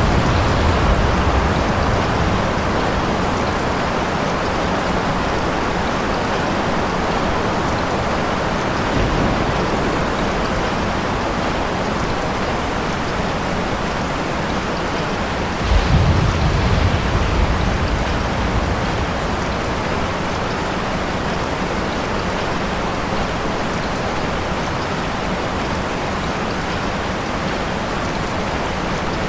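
Steady rain falling, with a low rumble of thunder right at the start and a louder roll of thunder about sixteen seconds in that lasts about two seconds.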